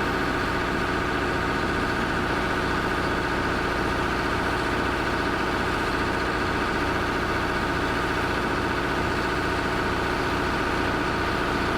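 An excavator's engine running steadily at a constant speed, an even drone with no changes in pitch or load.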